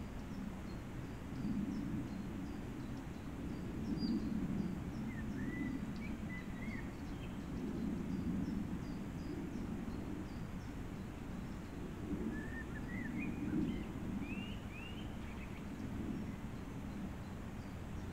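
Small birds chirping in short phrases of quick rising and falling notes, once about five seconds in and again about twelve seconds in, over a steady low rumble.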